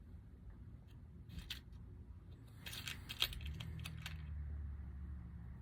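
Small metallic clicks and rattles of a bit or attachment being swapped on a small hand tool, followed a little past halfway by a low steady hum.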